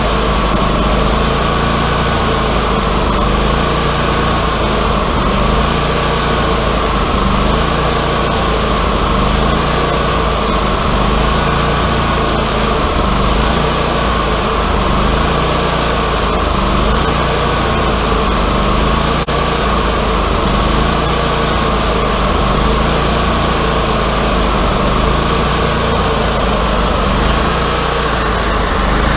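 Wood-Mizer LT40 portable band sawmill running steadily at speed: engine noise with a constant high whine over it.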